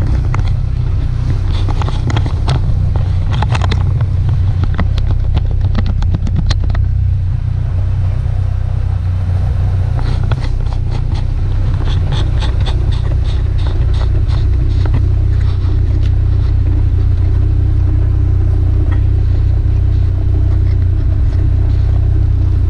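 Caterham Super 7's engine idling steadily with the car standing still. Scattered clicks and knocks come over it in the first seven seconds or so and again from about ten to thirteen seconds in.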